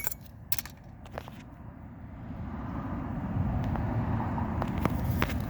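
A few light clicks of plastic harness clips and wiring being handled in an engine bay, then a low rumbling noise that builds about two seconds in and holds steady.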